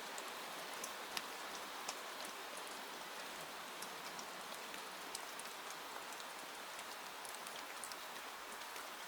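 Steady rain falling, a continuous even hiss with scattered sharp little clicks through it.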